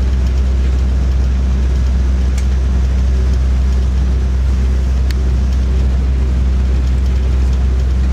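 Steady low rumble and engine hum of a diesel passenger train running at speed, heard from inside the carriage. Two sharp clicks sound about two and a half and five seconds in.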